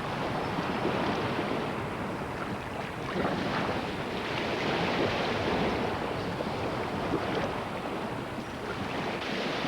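Ocean surf breaking and washing ashore, the noise swelling and easing with each wave.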